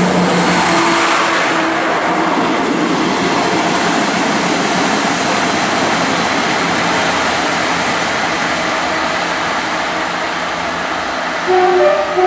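Trains running on the line: one passing, then a Class 158 diesel multiple unit approaching. The 158 sounds its horn briefly near the end.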